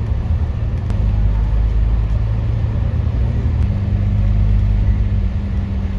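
Steady low rumble of a running vehicle engine. Its drone shifts slightly in pitch about three and a half seconds in.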